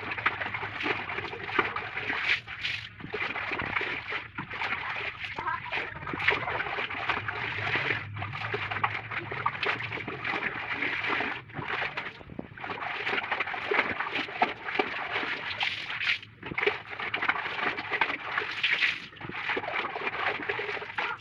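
Clothes being washed by hand in water: irregular sloshing and splashing, with uneven surges and a few brief pauses.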